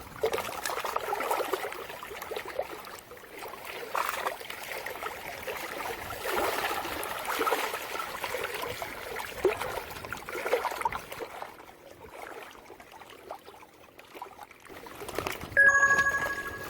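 Water splashing and trickling in uneven bursts, with small clicks. Near the end a short steady pitched tone, like a beep or chime, sounds for about a second and is the loudest thing heard.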